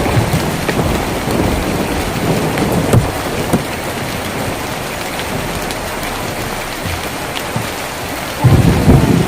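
Steady heavy rain drumming on a tin roof, with a few louder drops tapping. A low thunder rumble dies away over the first seconds, and another rumble of thunder starts suddenly near the end.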